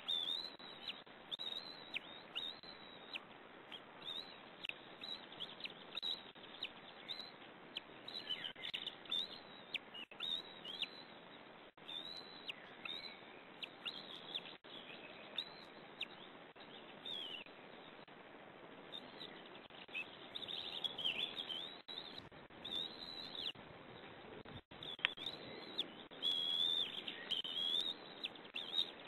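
Birds giving many short, high chirps, some falling in pitch, coming in scattered runs over a steady hiss.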